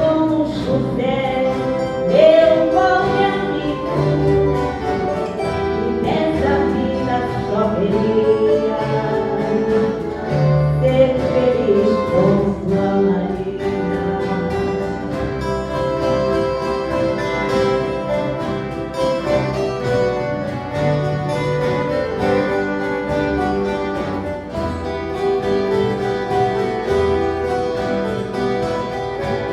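Music: an ensemble of violas caipiras playing, with voices singing.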